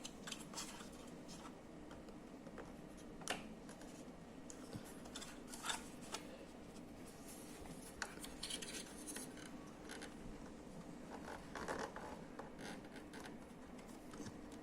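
Faint scattered clicks and scratching of small plastic printer parts being handled and fitted together by hand.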